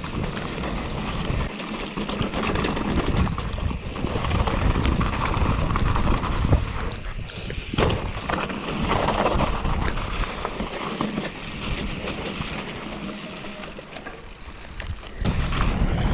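Downhill mountain bike descending a wet, muddy trail: rushing wind on the microphone and tyre noise that swell and ease with speed, with the bike clattering over bumps as many short knocks.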